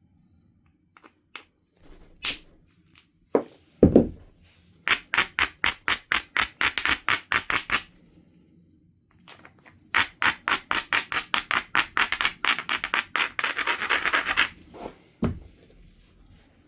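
Knife River flint biface being worked with stone tools: two runs of quick, even scraping strokes, about eight a second, typical of rubbing an abrader along the edge to prepare platforms. A few single clicks and two heavier knocks come between the runs.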